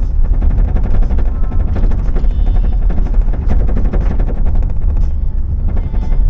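Vehicle road noise: a loud, steady low rumble with frequent knocks and rattles, typical of driving on a rough dirt track.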